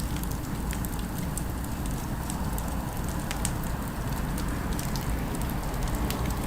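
Crackling fire ambience: a steady low rumble with many small sharp crackles and pops scattered through it, over a faint city background.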